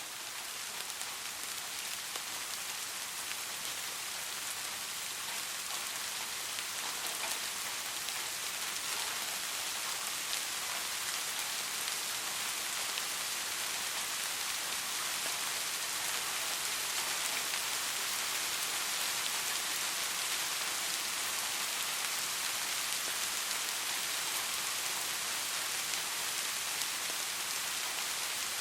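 Soft, steady rain: an even hiss of rainfall sprinkled with fine drop ticks. It swells slightly over the first half, then holds steady.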